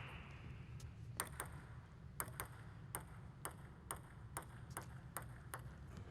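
Table tennis ball clicking sharply against table and paddle. Two quick pairs of hits are followed by a steady run of single clicks about two a second, over a low hall hum.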